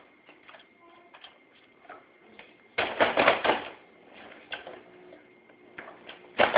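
A baby's fingernails scratching at a hard toy surface: scattered light clicks and taps, then a loud rasping burst of scratching about three seconds in and another at the end.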